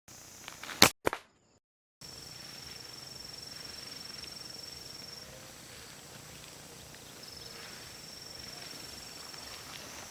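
Two sharp cracks in quick succession, then quiet outdoor ambience with a steady high-pitched insect drone that breaks off for a couple of seconds in the middle.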